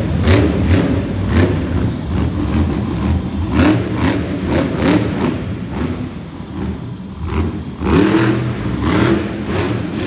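Monster truck engine revving hard in repeated bursts, its pitch climbing and dropping again several times.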